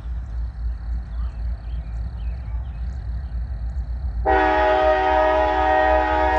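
Freight locomotive air horn sounding one long, loud, steady chord, beginning about four seconds in, over a low rumble.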